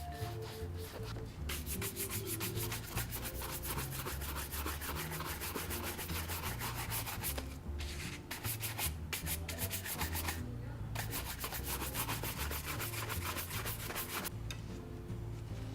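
Bristle shoe brush scrubbed briskly back and forth over a leather boot, buffing in shoe cream or polish: rapid strokes, several a second, with a couple of short pauses in the middle, stopping near the end.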